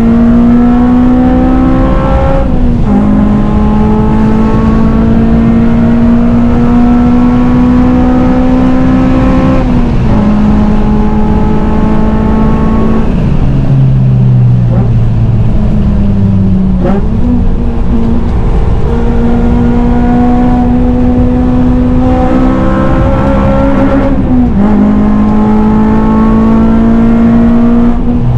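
Honda Civic Type R's four-cylinder engine and aftermarket cat-back exhaust pulling hard on track. The engine pitch climbs steadily and drops sharply at each upshift, about four times. In the middle the revs fall lower before it pulls up again.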